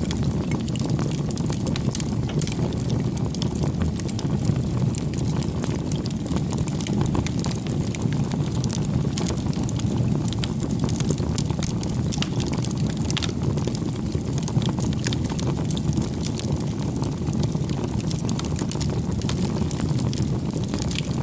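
Wood campfire burning: a steady low rush of flames with frequent small crackles and pops scattered through it.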